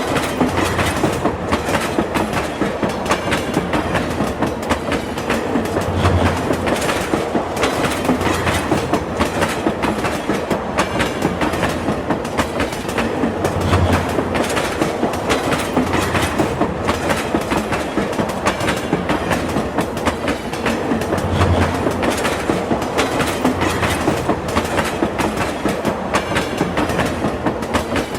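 Train wheels running over the rails with a steady clickety-clack. A deeper low rumble swells about every seven to eight seconds.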